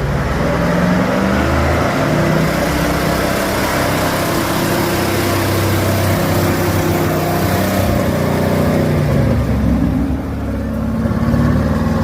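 Heavy 6×6 truck-trial truck's engine working under load, its pitch rising and falling with the throttle. It eases off briefly about ten seconds in, then picks up again.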